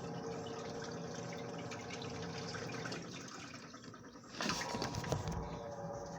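Top-loading washing machines in their wash cycle: a steady motor hum with water sloshing as the agitators churn blankets. About four seconds in there is a louder burst of splashing lasting about a second.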